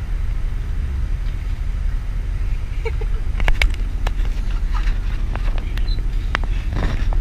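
Steady low road rumble inside a moving coach bus. From about halfway in there are a few short sharp clicks and knocks.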